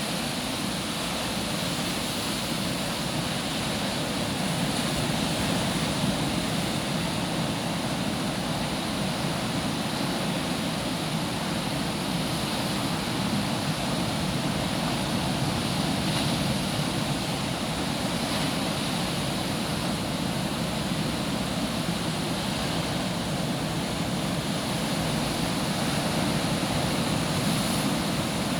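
Ocean surf breaking on a sandy beach: a continuous wash of waves that swells and eases gently in loudness.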